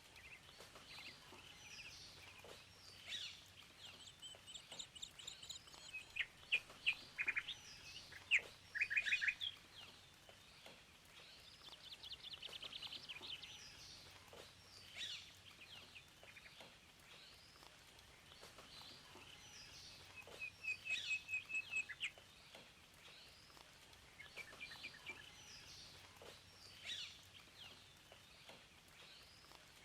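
Several songbirds singing and chirping over one another in high, short calls, with runs of rapid repeated notes; these runs are loudest about 6 to 9 seconds in and again around 21 seconds.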